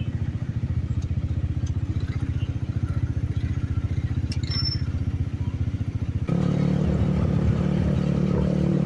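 Benelli TNT 25's single-cylinder engine and exhaust running with a low, evenly pulsing note. About six seconds in, it jumps suddenly to a louder, higher, steadier note.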